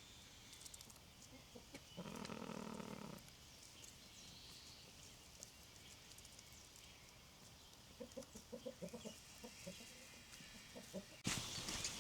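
Chickens clucking, a quick run of short clucks about eight seconds in, with a longer held animal call about two seconds in and faint birds chirping. A sudden louder noise starts near the end.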